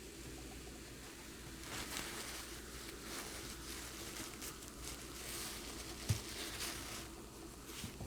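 Quiet, irregular crackling and rustling handling noises close to the microphone while eating at the table, with one short low thump about six seconds in.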